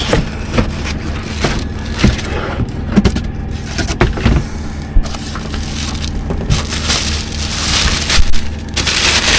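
Microwave packaging being handled and pulled apart: crunching and crackling with scattered knocks, and a louder rustle for a couple of seconds near the end.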